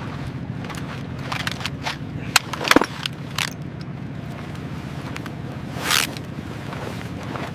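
Steady low machinery hum with scattered metallic clanks and scrapes; the loudest knocks fall about two and a half seconds in, and a longer scrape comes near the end.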